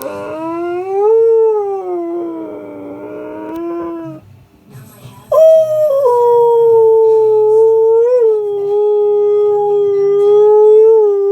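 Husky howling in long, drawn-out tones that sound like a motorbike: a first howl that rises and falls for about four seconds, then after a short break a second long, mostly level howl with a brief wobble partway through.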